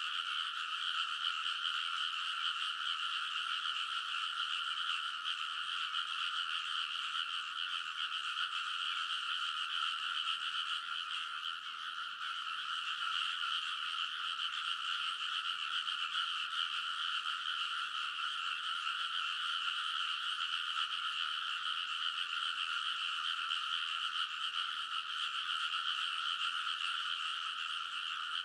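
A dense chorus of many frogs calling at once, a steady unbroken wall of croaking with no pauses.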